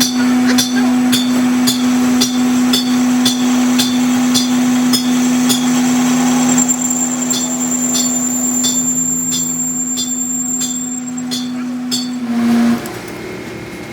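Lathe running with a steady hum and sharp regular ticks about twice a second. Near the end the hum rises briefly, then stops.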